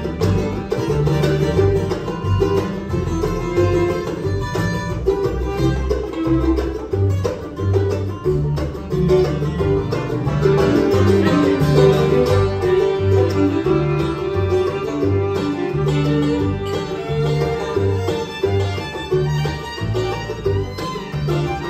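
Bluegrass band playing an instrumental passage with no singing: banjo picking over guitar, with a steady pulsing bass line underneath.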